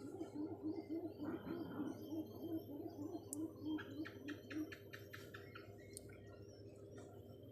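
Birds calling: a low call repeated about twice a second for the first four and a half seconds, with a quick run of higher chirps about four to five seconds in.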